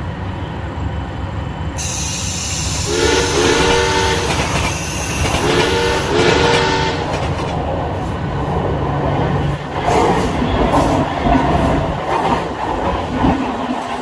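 Horn of a Western Railway EMU local train sounding in two pairs of short, chord-like blasts a few seconds in, over the steady rumble of running trains. Near the end, the coaches of the passing train run by with a rattling clatter of wheels on rails.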